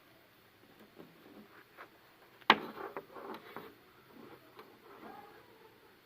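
Small clicks and knocks of hands handling a portable USB MP3 player and its circuit board, with one sharp click about two and a half seconds in followed by a few lighter taps.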